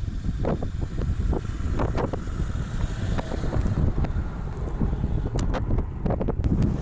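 Strong wind buffeting the microphone in a low, constant rumble, with a few short knocks and crunches mixed in.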